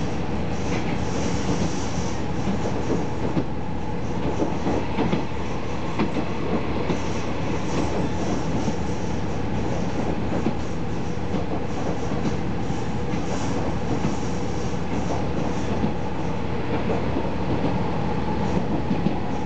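Onboard running noise of a KiHa 40 series diesel railcar: steady diesel engine hum and wheel-on-rail rumble, with clicks as the wheels cross rail joints. A thin high squeal from the wheels comes and goes, most about a second in and through the middle stretch.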